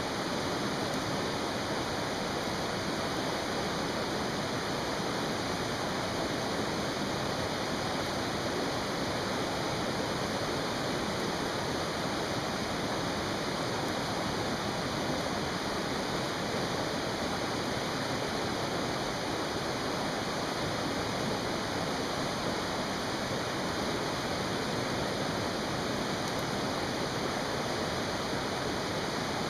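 Mountain stream rushing: a steady, unbroken wash of running water.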